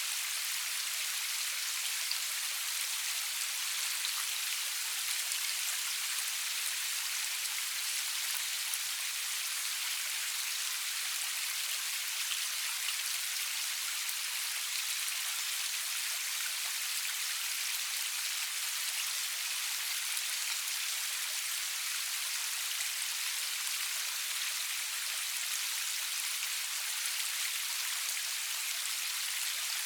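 Steady rainfall with no thunder: an even hiss of drops landing on surfaces, with fine scattered patter and no change in intensity.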